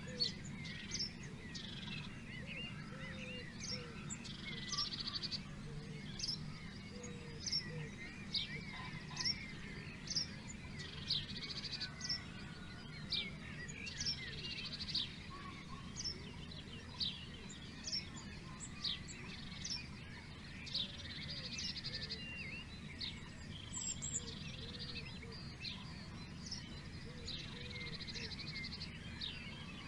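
Several songbirds singing and calling: sharp high chirps about once a second, mixed with short buzzy trills every few seconds, over a steady low rumble.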